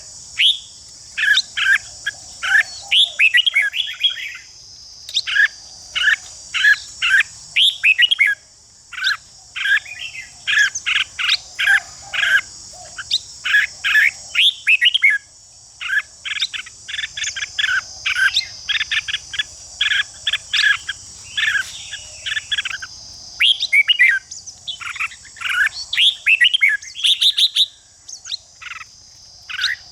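Red-whiskered bulbuls singing short, rapid whistled phrases one after another, over a steady high-pitched insect buzz.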